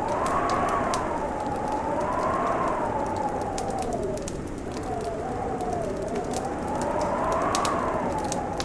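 Fireplace crackling with sharp scattered pops over a steady hiss, while wind howls in a whistle that slowly rises and falls in pitch, as in a blizzard.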